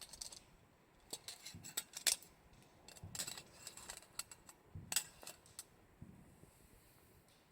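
Irregular sharp clicks and snaps from a campfire, bunched in short flurries with a few soft thuds among them, fading out over the last couple of seconds.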